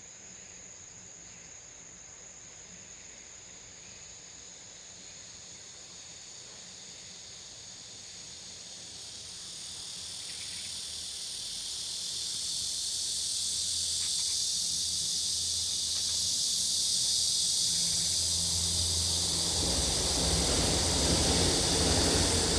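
Insects trill steadily at a high pitch, then the rushing hiss of flowing stream water swells in and grows steadily louder through the second half, covering the insects and gaining a low rumble near the end.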